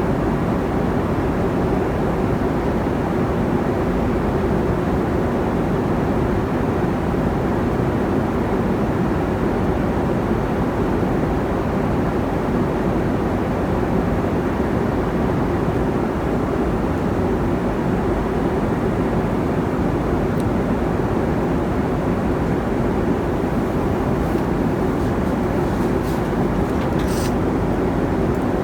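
Steady cabin noise of a Boeing 747-400 in cruise: the even rush of engines and airflow, with a hum in the low-middle range. A few faint clicks come near the end.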